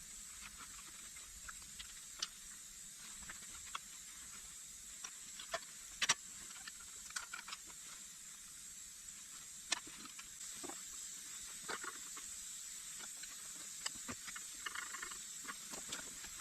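Sparse, irregular light clicks and knocks of hand tools on engine parts over a steady high hiss.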